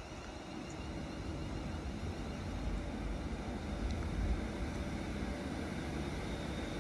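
Steady low rumble of a train on the West Coast Main Line, slowly building, with a faint high tone coming in near the end.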